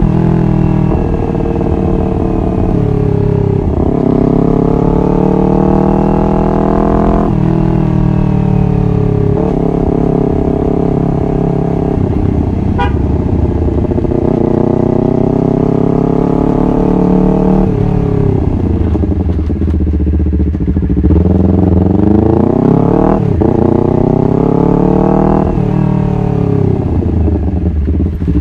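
Honda CBR250RR motorcycle engine under way, its revs climbing and then dropping sharply several times as it shifts through the gears.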